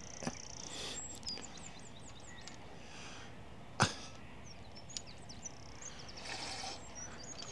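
Small birds chirping in short, high notes over a steady outdoor background, with one sharp click about four seconds in.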